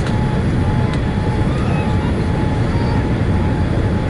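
Cabin noise inside a Boeing 787-8 Dreamliner during descent: a steady, dense rumble of airflow and engines, with a faint steady whine above it.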